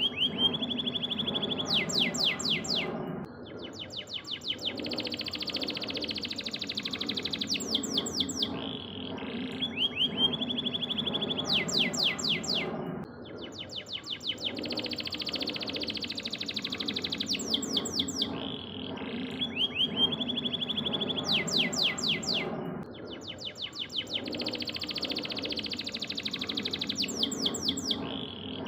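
Domestic canary singing: fast trills and rapid rolling sweeps, the same song phrase coming round about every nine and a half seconds as a loop.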